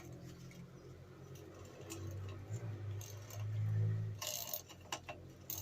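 Metal hand tools clinking and rattling while a small ratchet is fetched, with a few sharp clinks near the end over a low steady hum.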